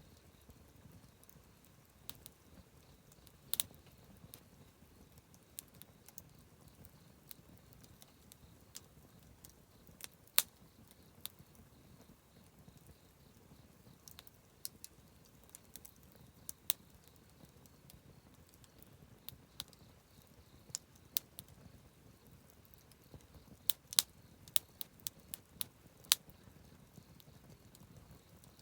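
Wood campfire crackling: irregular sharp pops and snaps, some much louder than others, with a quick run of them near the end, over a faint low rush of the burning fire.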